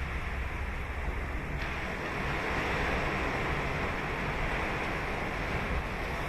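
Ocean surf breaking and washing up the beach in a steady rush, swelling louder about two seconds in.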